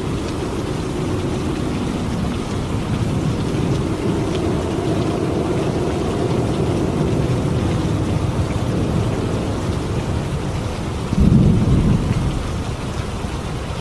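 Steady rain with low rumbling thunder, and a louder clap of thunder about eleven seconds in.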